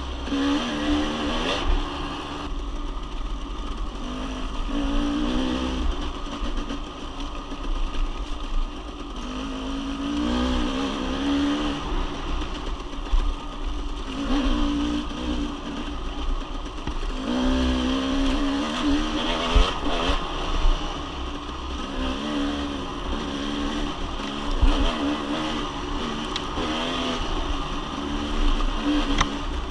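Dirt bike engine being ridden, revving up and easing off every few seconds as the throttle is worked, over a steady low rumble.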